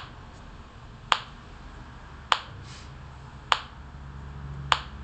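Metronome clicking steadily, a sharp click about every 1.2 seconds (around 50 beats a minute).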